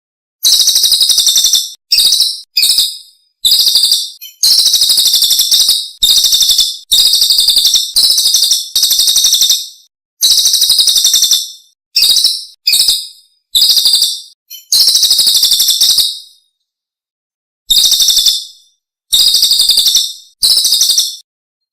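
Songbird song from a masteran (bird-song training) recording: rapid, very high-pitched trills in short bursts of up to about a second and a half, repeated over and over with brief silent pauses.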